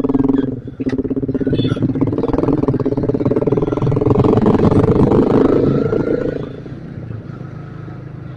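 Motorcycle engine running under way, most likely the rider's Yamaha Vixion single-cylinder four-stroke, loud through most of the stretch, then easing off sharply about six and a half seconds in as the throttle is closed.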